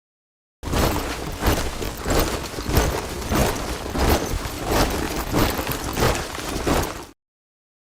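Many soldiers marching in step, their boots striking together in a steady rhythm of roughly three steps every two seconds. The marching starts out of dead silence about half a second in and cuts off abruptly about a second before the end.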